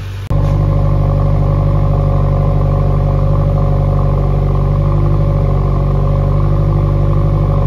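Subaru WRX's turbocharged FA20 flat-four engine idling steadily, heard at its quad exhaust tips, running on freshly installed spark plugs. It comes in suddenly just after the start.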